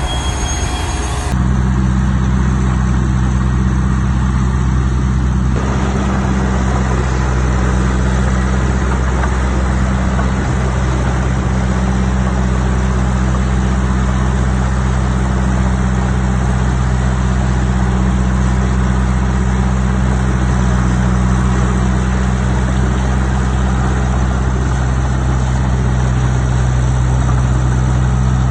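Heavy diesel engine of an earthmoving machine running steadily with a deep, even drone. The sound shifts slightly about a second in.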